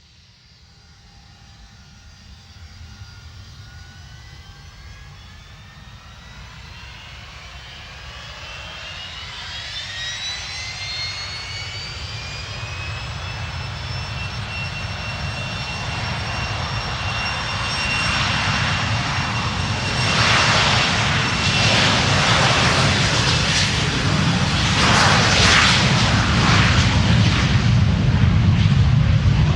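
Jet aircraft engine spooling up for take-off: a turbine whine climbs in pitch and then holds steady over a deep rumble. The sound grows steadily louder, turning into a rough, noisy blast in the second half.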